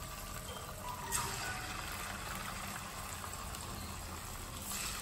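Marinated chicken pieces sizzling as they fry in hot oil in a wok; a steady sizzle that swells briefly about a second in.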